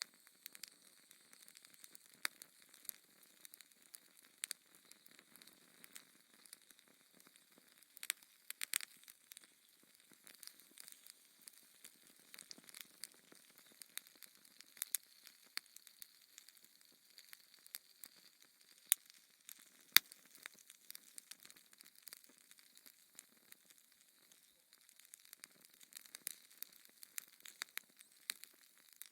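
Wood fire in a fireplace crackling: irregular sharp pops and snaps over a faint hiss, with two louder pops about two-thirds of the way through.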